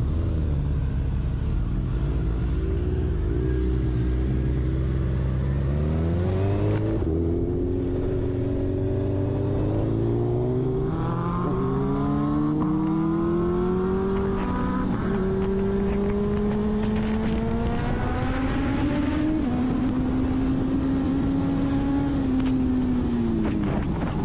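Suzuki Hayabusa's inline-four engine accelerating hard through the gears: its pitch climbs and drops back at each upshift, several times over. Near the end the revs fall away as the bike slows.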